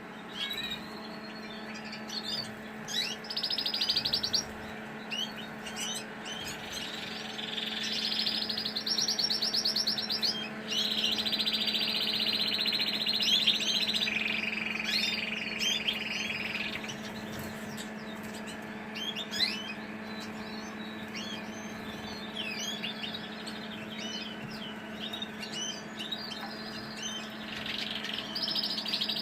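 Colour canaries singing, with several long, rapid rolling trills lasting a few seconds each and many short chirps in between, over a steady low hum.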